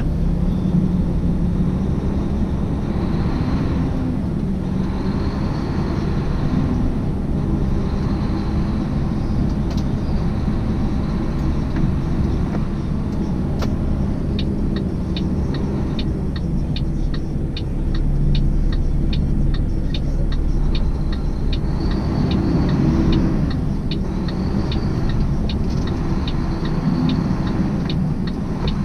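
Tractor-trailer cab on the road: the diesel engine and road noise run as a steady low rumble, with windshield wipers sweeping in the rain every couple of seconds. About halfway through, a regular clicking of two to three clicks a second joins in.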